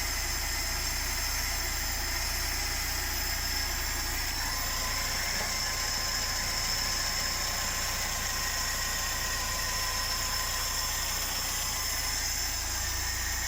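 VAZ-2106 (Lada) carburetted inline-four engine running steadily at idle. The owner complains that this engine shakes at idle and under load.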